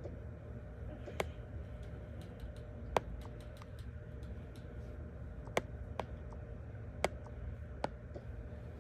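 Irregular sharp clicks and taps, six or so strong ones spread across the stretch with the strongest about three seconds in, over a steady low hum.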